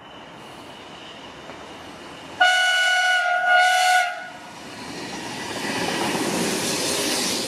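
Renfe series 440 electric multiple unit approaching and passing beneath: its rolling noise rises, and about two and a half seconds in it sounds its horn for about a second and a half. Then the rumble of wheels and motors grows louder as it runs underneath.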